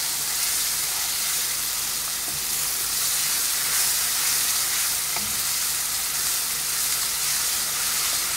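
Cornmeal and ghee mixture, loosened with hot water, sizzling and bubbling in a kadhai while a spatula stirs and scrapes through it: a steady sizzle.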